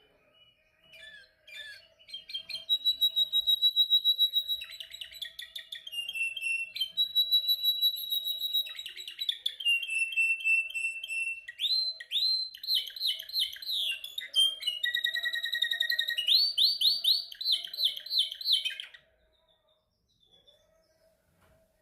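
Domestic canary singing a long song of rapid trilled phrases. Each phrase is a fast run of one repeated note held for a second or two before it switches to a new pitch. The song starts about two seconds in and stops abruptly near the end.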